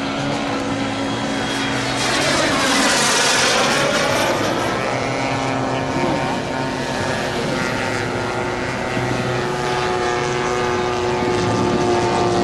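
Engines of a giant-scale radio-controlled warbird model running steadily in flight. The model sweeps past about two to four seconds in.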